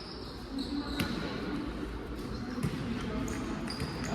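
Game sounds on an indoor court: a ball bouncing sharply twice, about a second in and again past the middle, with short high sneaker squeaks and a murmur of crowd voices echoing in the hall.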